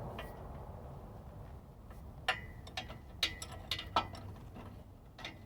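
Sharp metallic clicks and clinks of a hand wrench working bolts on exhaust hardware, starting about two seconds in and coming irregularly, several a second at times.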